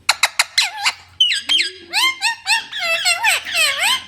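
A parrot calling: a quick run of sharp chirps, then from about a second in a string of squawks that swoop down and back up in pitch.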